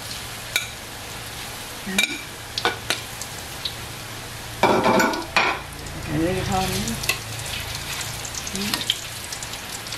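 Saba banana pieces deep-frying in a wok of oil, a steady sizzle, with sharp clicks and scrapes of metal tongs against the wok as the pieces are turned.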